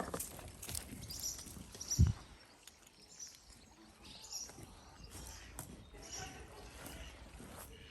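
Dalmatian puppies making faint, short, high-pitched squeaks and whimpers, with one loud low thump about two seconds in.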